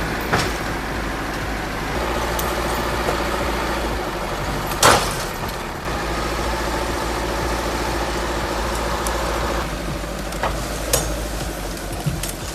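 A heavy vehicle or machine engine running steadily, with a few sharp knocks or clanks; the loudest comes about five seconds in.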